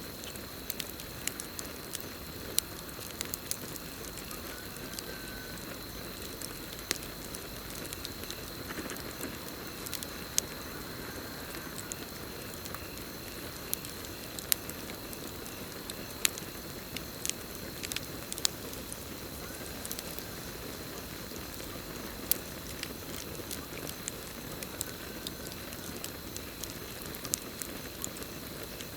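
Campfire burning with a steady hiss and frequent sharp, irregular crackles and pops of the wood, over a continuous high cricket trill.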